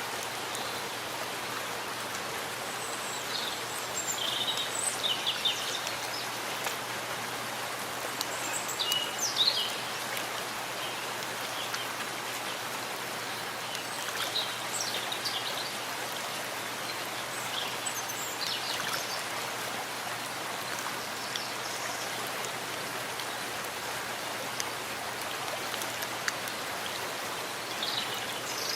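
Steady rain falling in a forest, an even hiss of drops on foliage. Short high bird chirps break through it now and then.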